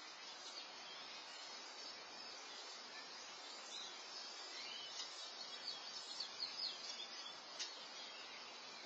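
Faint outdoor ambience picked up by a security camera's microphone: a steady high hiss, with a small bird chirping a quick series of short notes from about four to seven and a half seconds in.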